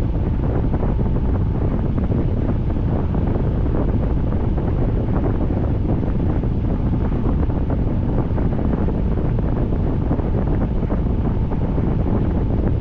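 Steady rain with wind rumbling on the microphone: a constant low rumble dotted with many small ticks.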